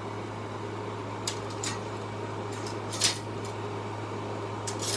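Steady low mechanical hum, like a motor or fan running, with a few light clicks and taps, the loudest about three seconds in.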